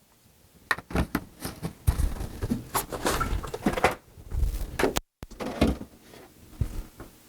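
Kitchen handling noises as milk is put away: scattered knocks, thuds and rustles, with a door being opened and shut. The sound drops out for a moment about five seconds in.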